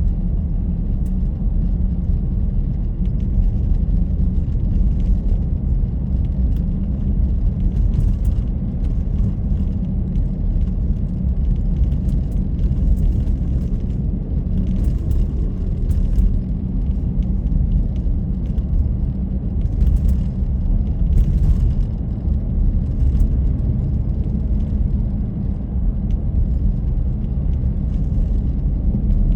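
Steady low rumble of a car driving, road and wind noise with no break, and faint scattered ticks on top.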